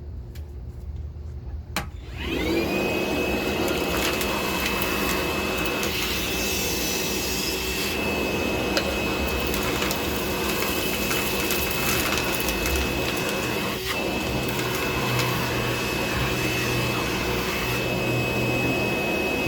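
DeWalt DCV581H cordless wet-dry vacuum switched on with a click about two seconds in. Its motor spins up with a rising whine, then runs steadily with a high whine while sucking sand and K1 filter media through the bare hose. The whine starts to fall at the very end as it winds down.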